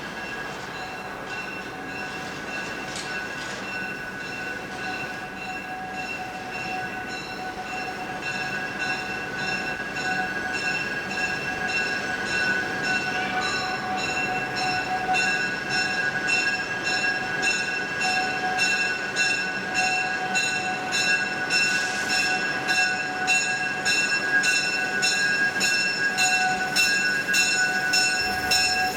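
Train rolling past with a steady high-pitched squeal from its wheels and a regular clacking over the rail joints, growing gradually louder.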